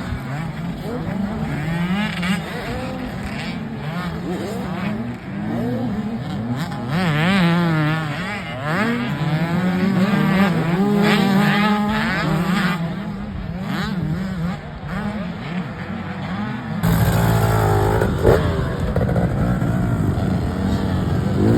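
Motocross dirt bike engines racing around the track, their pitch repeatedly climbing and dropping as the riders rev up and shift or roll off. About three-quarters of the way through, the sound gets louder and rougher as bikes come closer.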